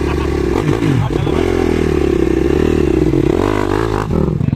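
Motocross dirt bike engines racing past, revving up and down as the riders work the throttle and shift through the track's corners.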